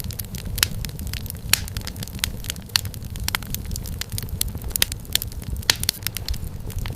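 Wood fire crackling in a fireplace: irregular sharp pops and snaps several times a second over a steady low rumble of the burning fire.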